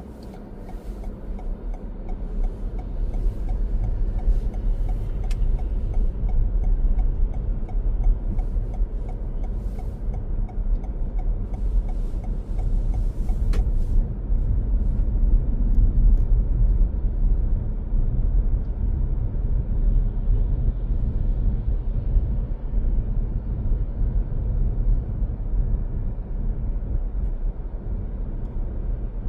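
Steady low rumble of a car driving, engine and tyre road noise heard from inside the car through a dashcam, with scattered faint clicks in roughly the first half.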